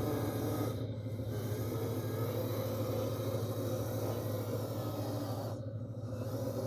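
Steady low engine drone of a running machine, with a constant hum and a slightly wavering higher tone above it.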